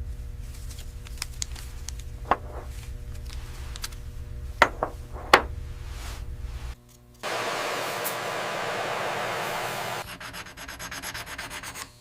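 Silverware clinking sharply four times over a low hum, then a steady rubbing noise of silver being polished for about three seconds, followed by quick, evenly spaced scratchy rubbing strokes.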